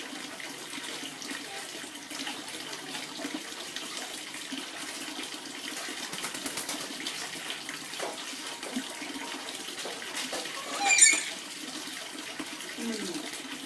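Tap water running and splashing steadily as a pet lory (nuri parrot) bathes in it. About eleven seconds in, one loud, high-pitched squawk.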